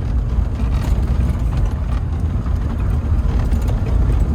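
Engine of a 1972 Datsun 620 pickup running steadily while driving, with a low, even rumble of engine and road noise heard from inside the cab.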